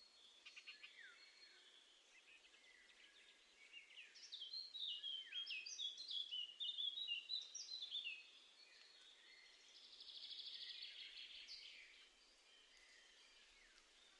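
Small songbirds singing and calling: a quick run of varied chirping notes lasting about four seconds, then a fast, buzzy trill of about two seconds, over a faint steady hiss.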